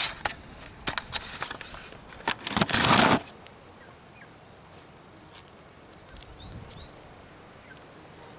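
Close rustling and clicking of feathers as a held rooster shifts against the microphone, loudest in a burst about three seconds in. After that it goes quieter, with a few faint short high chirps.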